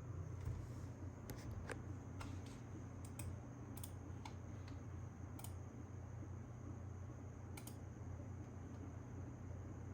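Sparse, irregular keyboard key clicks, bunched in the first six seconds with one more near the end, over a steady low hum.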